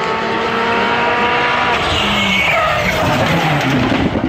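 Rally car engine at full throttle, its pitch climbing for nearly two seconds before dropping, then rough and uneven with loose tyre and gravel noise.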